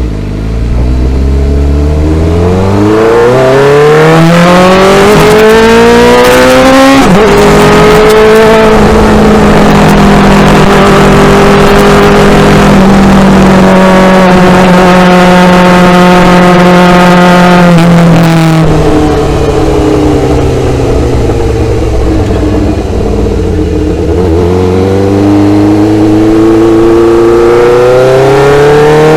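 Motorcycle engine under way. It revs up for about seven seconds, drops sharply at a gear change, and holds a steady pitch. It eases off from about eighteen seconds in, then revs up again near the end.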